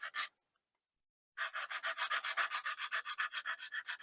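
Sanding stick rubbed quickly back and forth on a plastic model part, about six strokes a second; it pauses for about a second near the start, then carries on.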